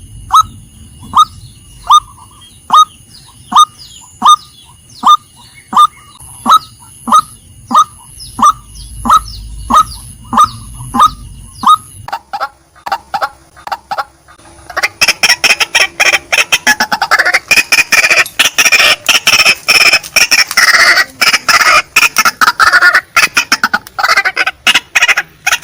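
Female white-breasted waterhen calling: a string of short, downward-sliding notes about one every three-quarters of a second. About halfway through they give way to rapid clicking notes, then a dense, harsh chattering run.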